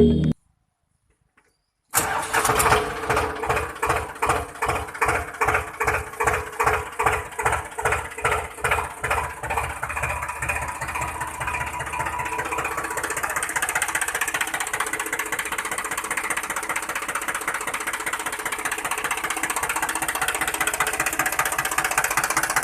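A tractor engine starting: slow, even chugs of about two a second that quicken after several seconds and settle into a steady running drone.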